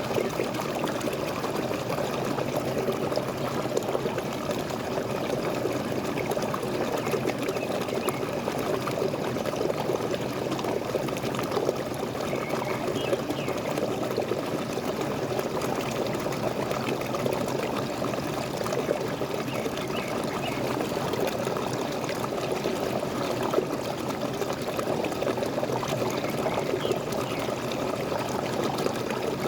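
Waterfall: water pouring and splashing steadily, with a few faint high bird chirps now and then.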